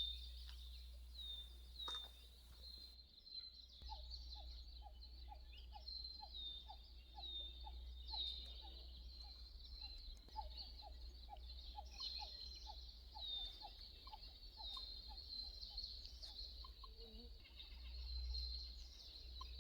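Faint forest birdsong: a high, falling note repeated about once a second, joined for much of the time by a lower call repeated about three times a second, over a steady low rumble.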